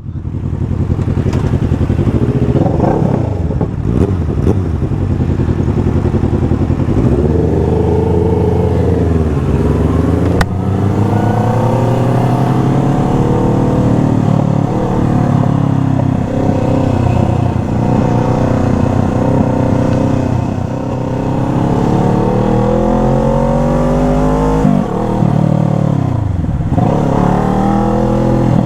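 Motorcycle engine accelerating and easing off, its pitch climbing and then dropping several times as it works through the gears. A single sharp click sounds about ten seconds in.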